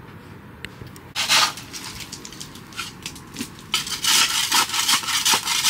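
A shovel digging and scraping into wet ground to drain pooled rainwater: one short scrape about a second in, then a quick run of scrapes from near the four-second mark on.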